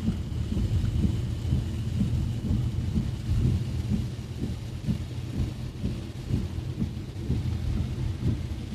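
Heavy rain on a moving car, heard from inside: a steady low rumble with many irregular patters of drops hitting the body.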